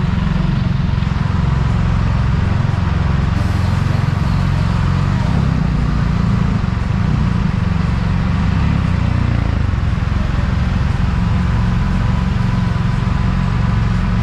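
Can-Am Spyder F3's three-cylinder engine running steadily while riding in traffic, mixed with a heavy, steady rumble of wind on the microphone.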